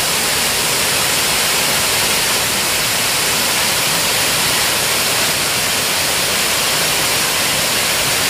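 Waterfall crashing down into its pool: a loud, steady rush of falling water.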